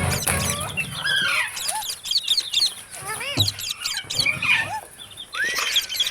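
Several green parrots chirping and squawking over one another in many short, quick up-and-down calls, with a few longer whistled slides.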